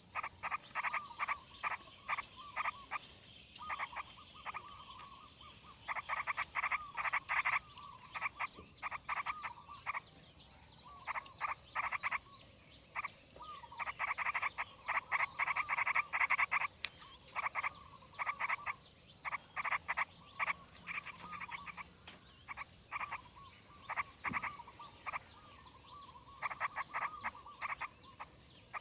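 Frogs croaking in rapid trains of short pulses, the trains overlapping and repeating with brief pauses between them.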